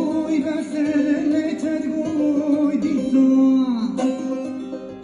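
A song: a voice singing a wavering, sliding melody over plucked string accompaniment, with a new strummed or plucked note about four seconds in.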